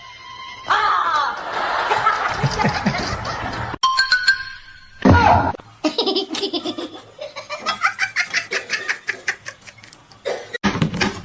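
Laughter, with a long run of rapid 'ha-ha' pulses in the second half, over background music.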